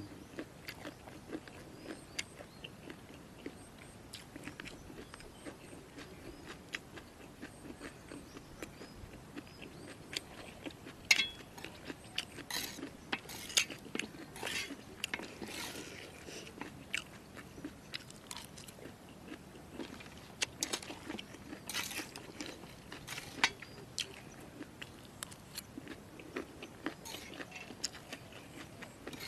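Close-miked chewing of crunchy jellyfish salad: irregular crisp crunches and wet mouth clicks, with a few louder bites in the middle stretch.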